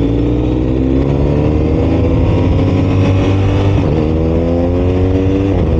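BMW R 1250 RS's boxer twin engine accelerating hard, its pitch climbing through the gears and dropping sharply at two upshifts, about four seconds in and near the end, over a steady rush of wind and road noise.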